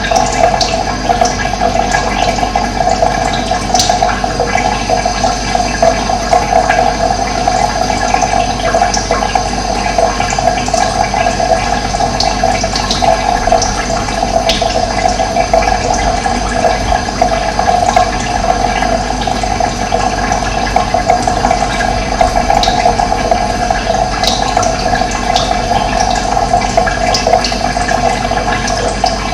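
Running water flowing steadily, like a stream or small cascade, with a few short high bird chirps now and then.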